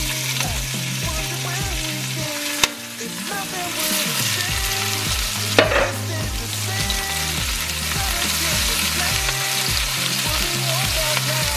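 Chopped onion, celery and tomato sizzling in hot oil in an enameled cast-iron Dutch oven, with a steady frying hiss and stirring. A short knock a few seconds in and a louder clatter about halfway through as vegetables go into the pot.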